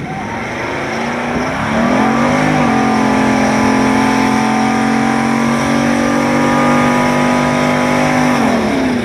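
Van engine revved up and held at high rpm through a burnout, the spinning rear tyres hissing and squealing on the pavement. The revs climb over the first couple of seconds, hold steady, then drop near the end.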